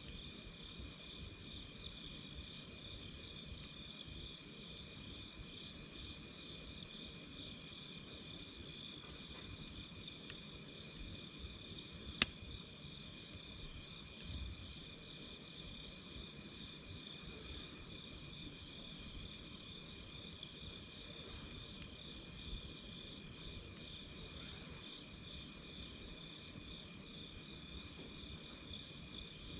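A steady, finely pulsing high insect trill, like crickets, under a low hiss of burning wood. A few sharp campfire pops cut through, the loudest about twelve seconds in.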